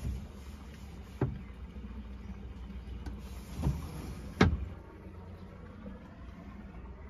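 Three knocks, the last and loudest about four and a half seconds in, over a low steady rumble.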